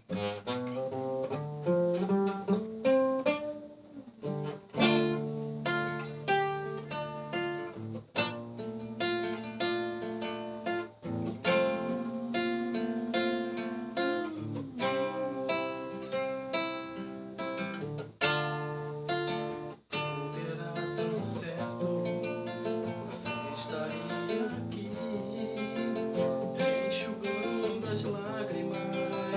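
Acoustic guitar playing a melody with chords, note after note plucked, as an instrumental of a gospel song.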